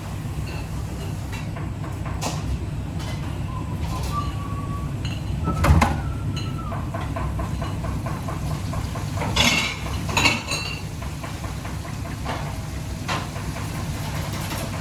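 Kitchen clatter: a few sharp clinks and knocks of metal pots, pans and utensils, the strongest about six seconds in and two more near ten seconds, over a steady low rumble.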